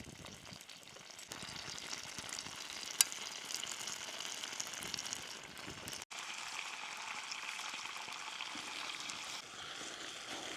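Bacon sizzling as it fries over a twig stove: a steady crackling hiss, with one sharp click about three seconds in.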